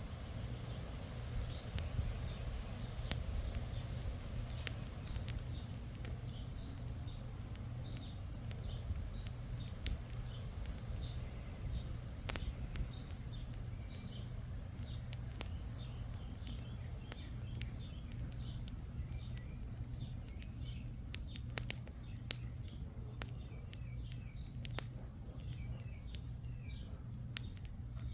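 Wood campfire crackling, with scattered sharp pops, under wind rumbling on the microphone. A bird chirps a short high note over and over, about twice a second.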